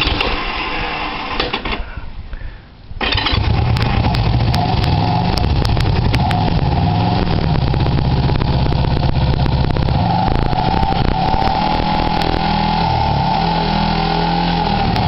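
Motorcycle engine cold-started on choke. After a noisy start and a short lull it catches about three seconds in, then runs steadily with its speed wavering up and down while it warms up.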